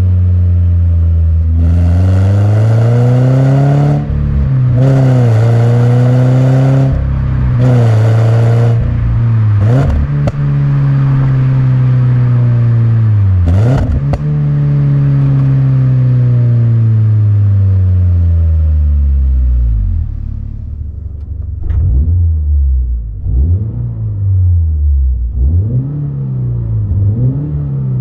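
Toyota GR86 / Subaru BRZ with a COLBASSO Ti-R Plus titanium single-exit exhaust. The flat-four engine is revving up hard through several gears, its pitch dropping at each shift. It then winds down in a long falling note, followed near the end by a quieter series of short revs rising and falling.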